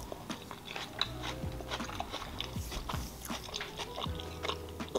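Close-miked chewing of a mouthful of tortilla wrap, with many small wet mouth clicks and lip smacks.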